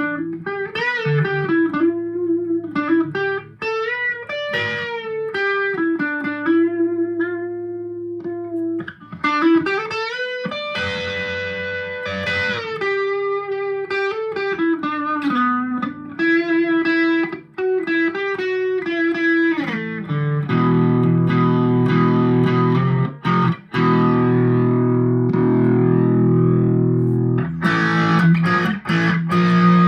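Squier Telecaster electric guitar played through a Vox AV15 valve amp: single-note lead phrases with string bends for about the first two-thirds, then sustained strummed chords.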